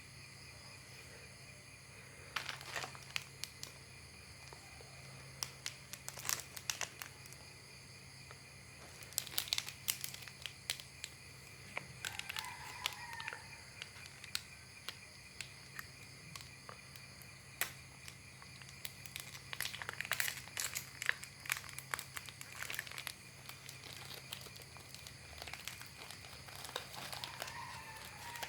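A cat eating, with bursts of short crunching, clicking chewing sounds. A rooster crows faintly twice, about twelve seconds in and again near the end.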